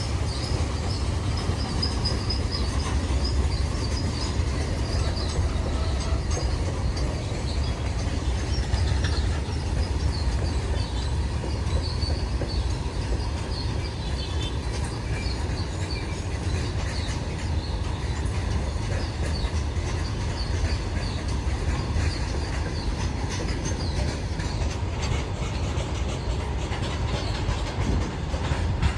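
Goods train rolling past: a steady low rumble of wheels on rails with faint high wheel squeals.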